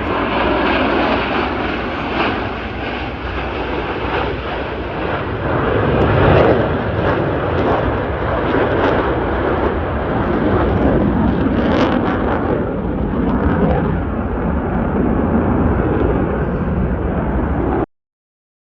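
Jet aircraft flying past at an air show, a loud steady jet-engine noise that swells to its loudest about six seconds in and then holds, cutting off abruptly near the end.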